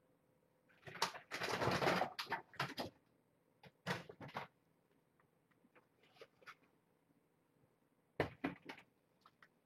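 Rummaging through cupboards: a cupboard door and household items being moved, with irregular knocks and clatter. A dense cluster of clatter lasts about two seconds from about a second in, a shorter one comes around four seconds, and a few sharp knocks come near the end.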